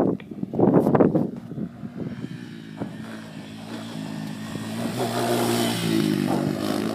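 Two loud rushing bursts in the first second, then a motorcycle engine growing louder, peaking about five to six seconds in and dropping in pitch as it goes past.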